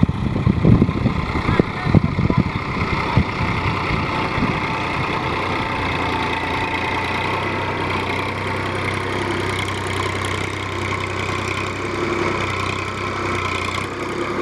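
Massey Ferguson tractor engine running steadily. Loud, irregular low thumps fill the first few seconds before the steady engine drone takes over.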